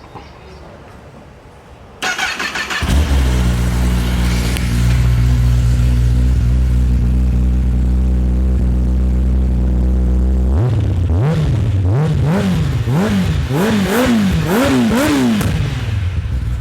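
Kawasaki ZX-10R inline-four on its stock exhaust being started: the starter cranks briefly and the engine catches, then it idles steadily. About eight seconds later come a series of about seven quick throttle blips, each rising and falling in pitch.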